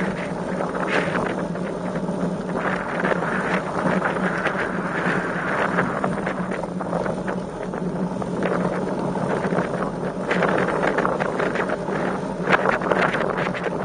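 Strong wind buffeting the microphone of a camera on a moving road bike: a steady rushing noise that surges and eases with the gusts.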